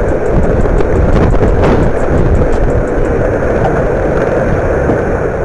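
Loud, steady storm noise with strong wind rumbling on the microphone. A run of quick, regular ticks sounds through about the first three seconds.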